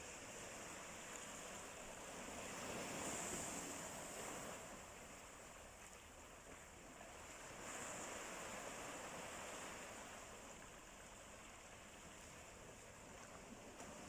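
Sea waves washing in on the shore, a steady hiss of surf that swells twice, about three and eight seconds in, and ebbs between.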